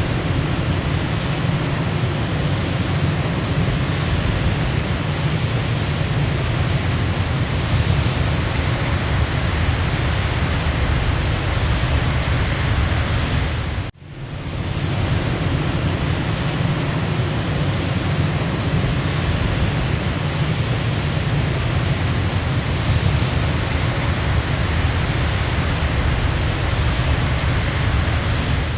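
Waterfall rushing in a steady, dense roar of falling water. About halfway through, the sound briefly drops out and fades back in.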